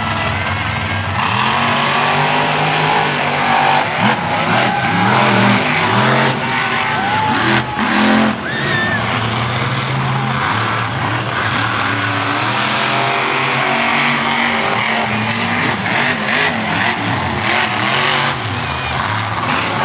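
Monster truck engines racing, revving up and falling back again and again, with a few sharp knocks.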